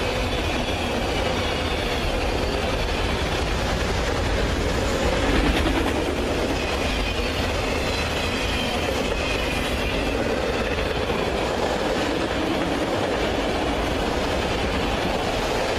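CSX freight train's cars rolling past on the track: a steady, even rumble of steel wheels on rail.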